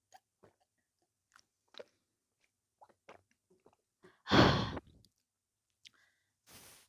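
Close-miked mouth sounds of someone eating: soft, wet chewing clicks at irregular intervals, picked up by a headset microphone. About four seconds in comes one loud, short breathy sound from the mouth.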